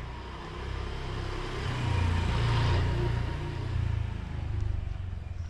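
A motor vehicle driving past close by. It grows louder to a peak about two to three seconds in, then fades.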